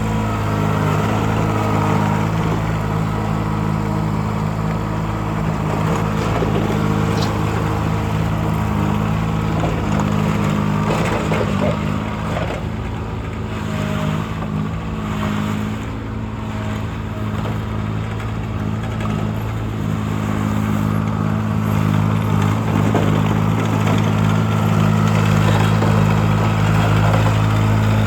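Engine of a Barreto 825 TKL mini skid steer running steadily, with some clatter around the middle and getting louder near the end.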